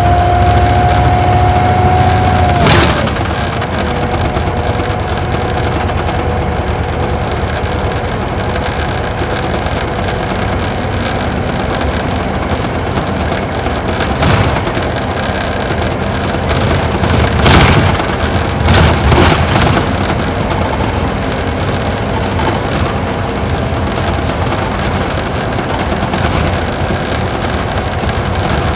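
Isuzu Gala coach's V-type diesel engine heard from inside the cabin. The engine note rises slightly, then drops sharply with a thump about three seconds in, and it runs on at a lower steady note under road noise. A few short knocks and rattles come from the body midway, the loudest about two-thirds of the way through.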